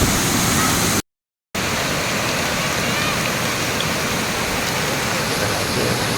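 Waterfall water rushing in a steady roar of noise. About a second in it cuts out completely for half a second, then comes back slightly quieter.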